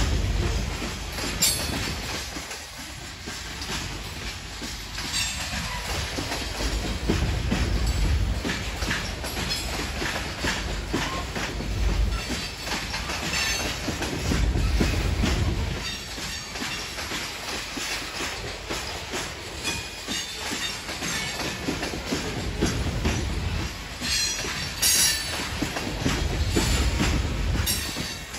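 Loaded coal hopper cars of a long freight train rolling past: a steady rumble of steel wheels that swells every few seconds, with clicking and clacking over the rail joints. Brief high wheel squeals come about three seconds before the end.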